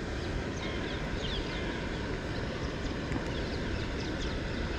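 Steady low outdoor background noise with faint, short, high bird chirps that fall in pitch, several times over.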